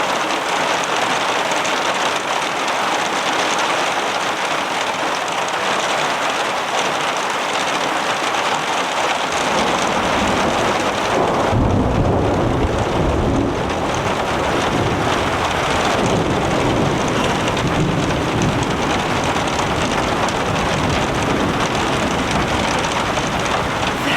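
Heavy rain falling steadily, with a long low rumble of thunder that comes in about ten seconds in, is loudest a few seconds later and then slowly fades.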